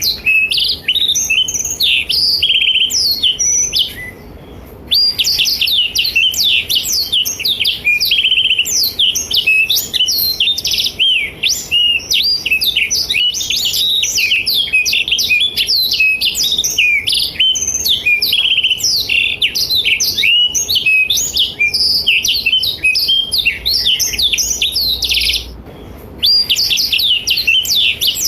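Blackthroat (black-throated canary) singing a long, fast, unbroken run of rapid twittering and trilling notes. It breaks off briefly twice, about four seconds in and near the end.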